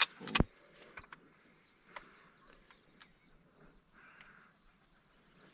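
A single shotgun shot about half a second in, followed by faint scattered clicks and rustling.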